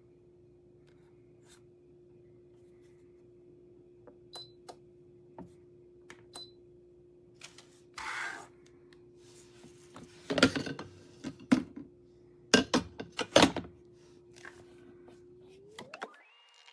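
Handling clatter: scattered clicks and a few loud clusters of sharp knocks, as of hard parts being moved and set down, over a steady hum. Near the end the hum glides steeply up into a high steady tone.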